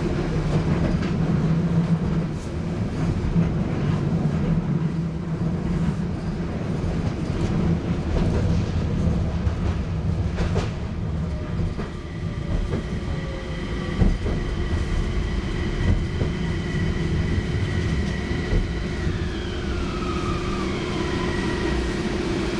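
Running noise heard inside a Toyama Chiho Railway Centram low-floor tram: a steady rumble of wheels on rail with occasional knocks from the track. A whine from the electric drive sets in about halfway through and falls in pitch near the end as the tram slows.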